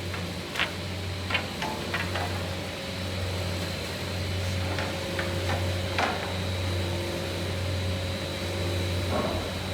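Steady low machine hum, with about a dozen scattered sharp clicks and knocks from frame corners being worked on an automatic underpinner.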